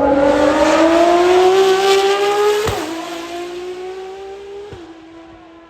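High-performance car engine accelerating hard, its note rising, with two quick upshifts about three and five seconds in, each marked by a brief crack and a drop in pitch. The sound fades as the car pulls away.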